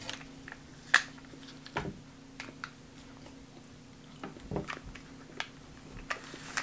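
Quiet mouth sounds of people chewing a piece of halva, with scattered small clicks, the sharpest about a second in, over a faint steady hum.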